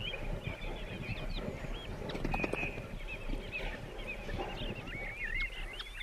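Birds chirping and calling: many short whistled notes that sweep up and down, coming thicker in the second half, over a busy crackling rustle.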